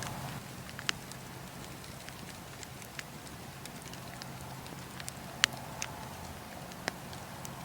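Wood campfire burning with a soft steady hiss and irregular sharp crackles and pops from the logs and embers, the loudest pop about five and a half seconds in.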